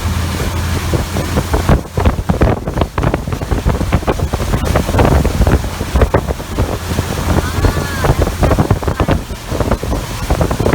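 Wind buffeting the microphone on a moving motorboat, with irregular rushing and slapping of water under a low steady engine drone.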